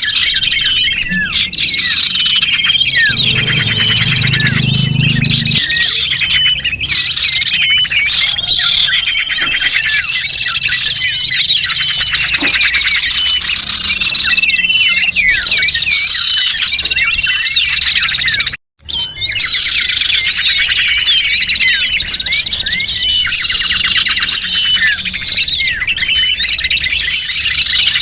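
Dense chorus of many small birds chirping and twittering at once, quick overlapping calls and trills: a recorded lure call for trapping small birds. The sound cuts out for a split second just over halfway through, then carries on.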